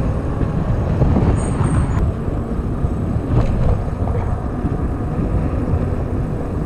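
Wind buffeting the microphone of a camera riding along on a moving bicycle, a steady loud low rumble, with tyre and road noise underneath.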